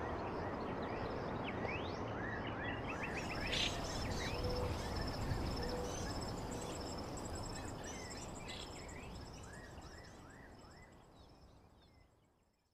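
Outdoor nature ambience: birds chirping in short rising calls over a steady background hiss, with a high pulsing insect trill joining a few seconds in. The whole fades out gradually near the end.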